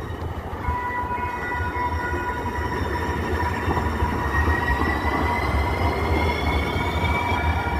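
Light rail train running, with a low rumble and steady high-pitched whining tones that slowly rise in pitch as the sound grows louder.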